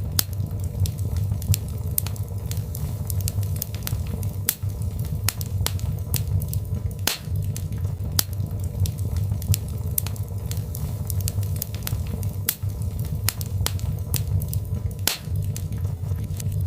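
Birch logs burning in a fireplace, crackling and popping irregularly, several sharp pops a second, over a steady low rumble.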